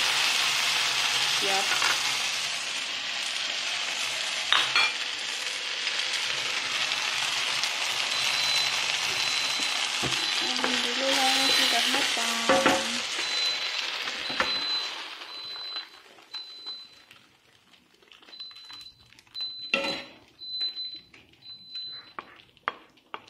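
Eggplant and minced chicken sizzling in a nonstick frying pan, stirred with a wooden spatula. About two-thirds of the way through the sizzle dies away, leaving scattered scrapes and taps of the wooden spatula on a ceramic plate as the food is served out.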